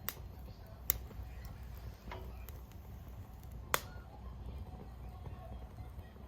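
Wood fire crackling in a homemade stainless-steel-bowl secondary-combustion fire pit: a few sharp pops, three of them louder, over a low steady rumble.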